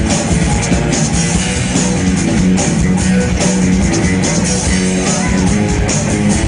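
Live pop-rock band playing a song through a concert sound system, with guitar prominent in a loud, steady mix.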